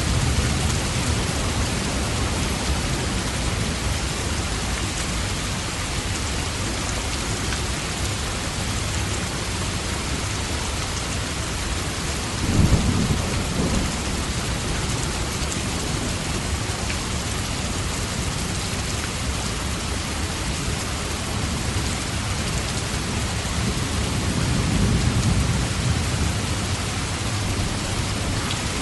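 Steady, even rain with rolls of thunder: a low rumble about halfway through and another swell near the end.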